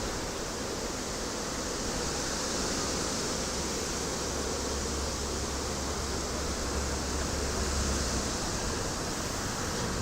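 Steady rushing noise of wind, with a low rumble for a few seconds in the middle.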